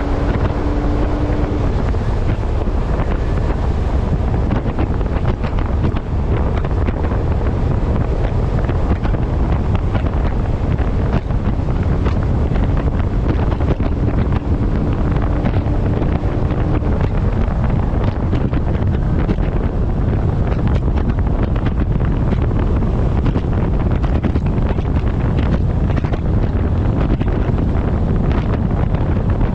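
Heavy wind buffeting on the microphone of a camera mounted on the front of a moving truck: a loud, steady rumbling rush. A faint steady tone sits under it near the start and again in the middle.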